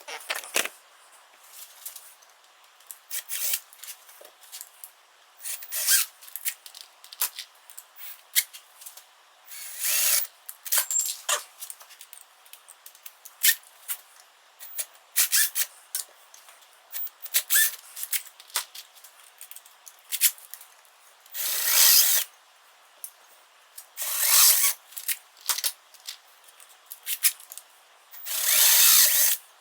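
Hand-held power drill run in many short bursts, drilling out holes, with a few longer runs of about a second in the second half.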